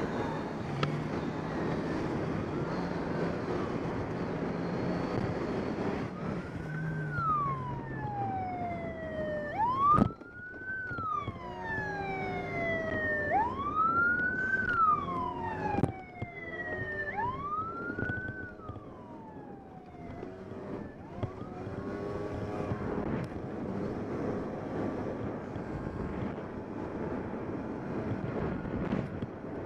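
Police car siren wailing, a slow rise and fall repeated about four times, over vehicle engine and road noise; the siren stops about two-thirds of the way through and the engine and road noise go on.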